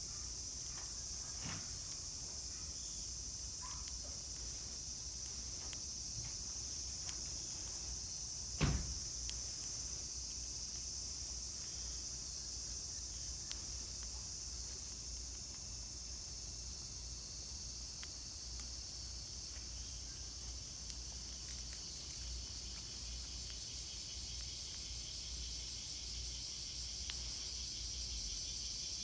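Steady, high-pitched chorus of insects singing, with a single sharp knock about nine seconds in.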